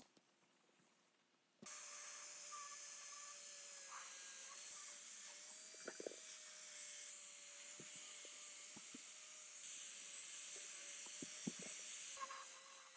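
A steady high hiss that starts abruptly about a second and a half in, with a faint steady tone under it and a few light clicks.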